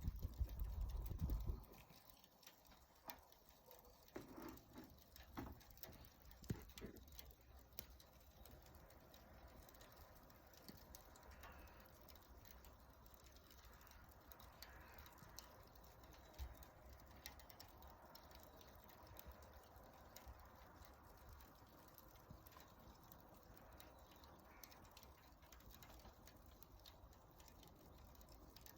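Wood fire crackling faintly, with scattered small snaps and pops over a low hiss. A louder low rumble fills the first second or so.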